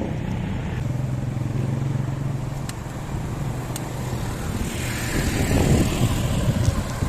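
A motor vehicle's engine running close by as a steady low hum, then a louder rushing of road and wind noise from about five seconds in.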